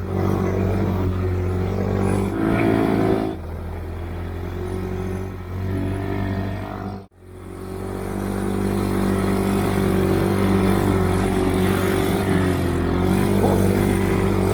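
Stalker snowmobile engine running under throttle, briefly revving higher about two to three seconds in and easing back. About halfway through the sound cuts out for a moment, then the engine runs steadily again.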